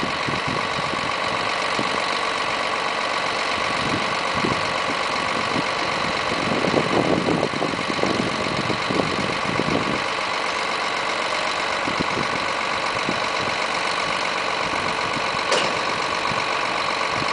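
Lorry engine idling steadily while it drives a HIAB truck-mounted loader crane lifting a shipping container, with a steady whine over the engine. A rougher, louder stretch comes about seven to ten seconds in, and there is a sharp click near the end.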